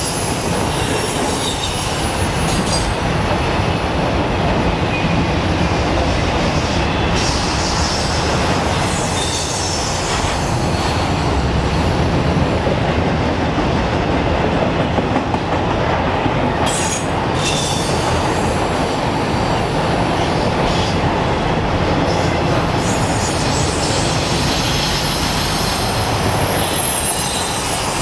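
Freight train of autorack cars rolling by: a steady rumble and clatter of steel wheels on rail, with a thin high wheel squeal near the start and again near the end.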